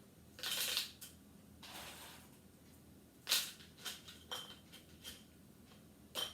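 Kitchen handling noises while packing canning jars: two brief rustling scrapes, then a series of light clicks and clinks, some with a faint glassy ring, from pint glass jars and utensils being handled.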